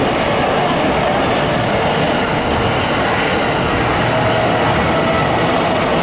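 Train passing on the tracks: a steady, loud running noise of the wheels on the rails.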